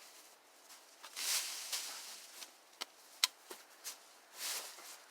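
Footsteps rustling through brush and undergrowth, with three sharp snaps or clicks in the middle.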